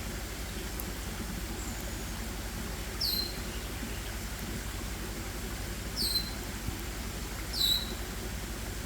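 A small bird calling three times, each call a short, high note sweeping down in pitch: about three seconds in, at six seconds, and near the end. A steady low background noise runs underneath.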